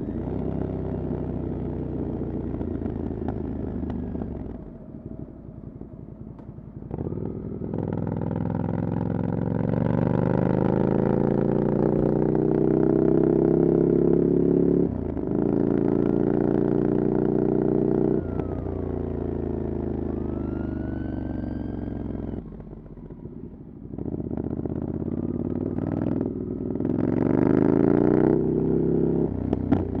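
Ducati Scrambler Desert Sled's air-cooled 803 cc L-twin running through a LeoVince exhaust with the dB killer removed, ridden hard. The engine note climbs in pitch and falls back at each upshift, several times. It goes quiet off the throttle about five seconds in and again about three-quarters of the way through.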